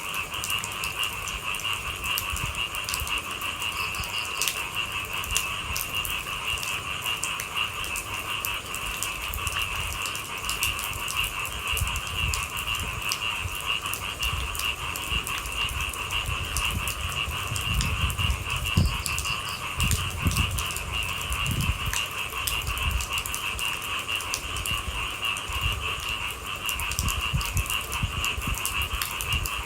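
Steady, high-pitched chorus of night animals over a patter of rain, with a few low thumps near the middle.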